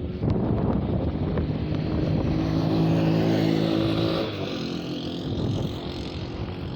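Strong storm wind gusting and buffeting the microphone, with a few sharp ticks. A low steady drone rises out of the noise about two seconds in and fades about four seconds in.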